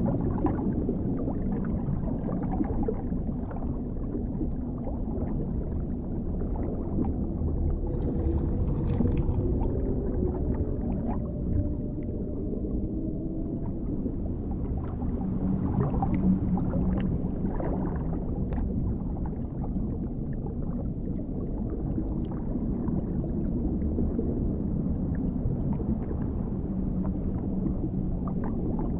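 Underwater ambience: a steady deep rumble of water with scattered faint clicks, and a faint wavering tone gliding in pitch a little before the middle.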